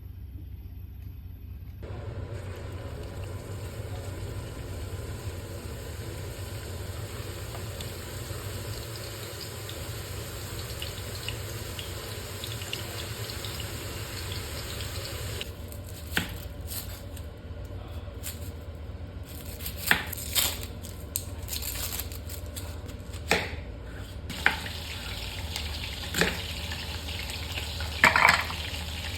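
Water running steadily from a kitchen tap for about thirteen seconds, then stopping. After that comes a series of sharp knocks and clinks of kitchen utensils and dishes.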